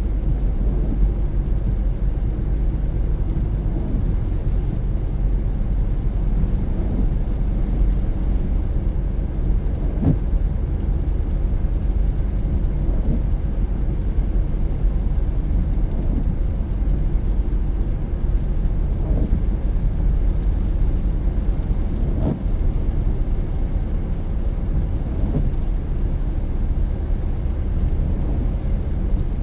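Car driving at steady speed: a continuous low rumble of tyre, road and engine noise, with a faint tick about every three seconds.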